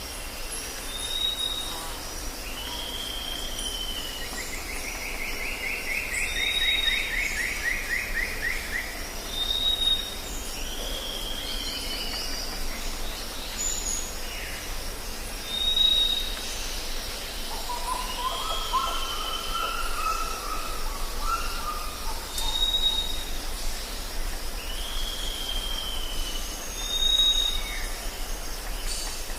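Jungle ambience: several birds calling over a steady high insect drone and a low rumble. A short high whistle repeats every two to three seconds with drooping calls between, a fast trill comes about five seconds in, and a lower warbling phrase comes a little past the middle.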